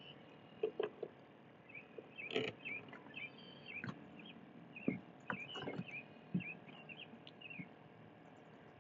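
Small birds chirping in many short, quick notes, with a few sharp clicks and knocks mixed in.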